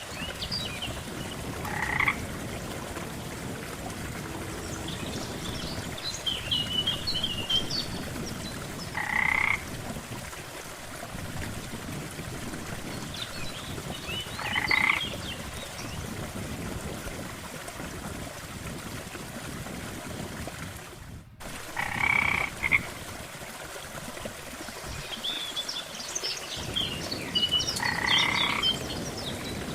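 Frogs croaking, one call roughly every six seconds, each with a cluster of shorter, higher chirps just before it, over a steady low background of outdoor ambience.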